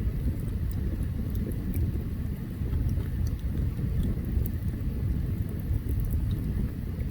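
Open campfire burning, with scattered sharp crackles and pops over a steady low rumble.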